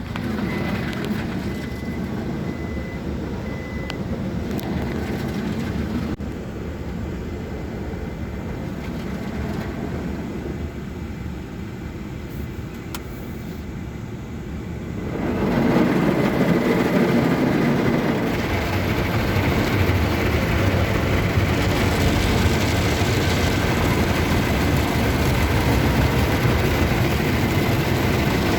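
Istobal M'nex 22 rollover car wash machine working over the car, heard from inside the cabin as a steady mechanical wash noise. It becomes much louder and hissier about fifteen seconds in, as the machine comes close over the car.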